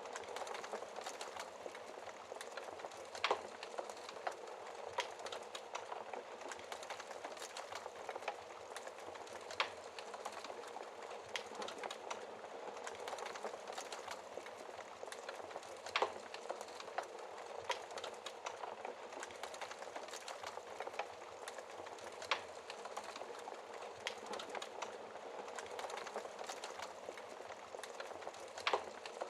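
Wood fire burning in a fireplace: a steady crackle and hiss with a few sharp louder pops of the burning logs scattered through.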